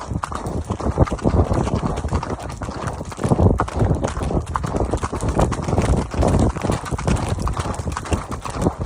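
Horse hooves clip-clopping on the trail as horses are ridden at a walk, a steady run of irregular knocks.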